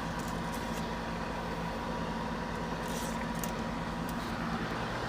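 An engine running steadily: an even low hum with a faint steady whine above it.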